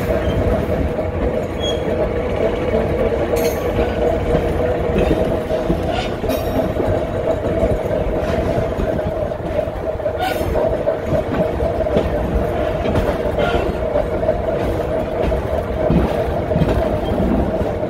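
Riding in an open passenger car of a small train as it rolls along the track: a steady rumble with a humming tone from the running train, and a few sharp clicks from the wheels and car.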